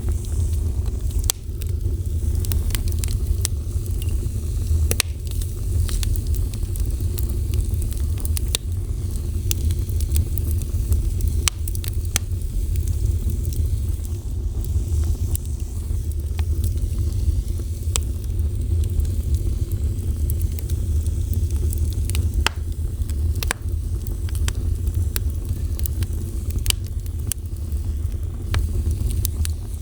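Wood fire burning, with a steady low rumble and frequent sharp crackles and pops over a soft hiss.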